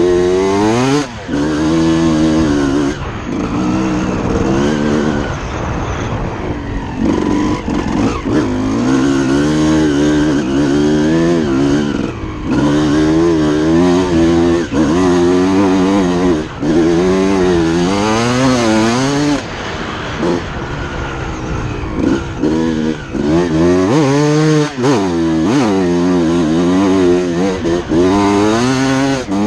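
2006 Suzuki RM250 single-cylinder two-stroke motocross engine, revving hard and then dropping off again and again as the throttle is opened and shut, its pitch rising and falling every couple of seconds.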